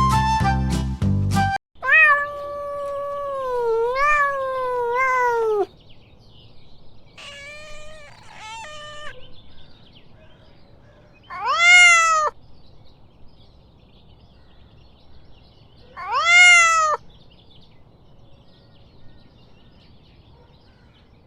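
Domestic cat meowing: one long drawn-out meow, then a few short meows, then two separate meows that rise and fall in pitch, about five seconds apart. Children's music plays briefly at the start.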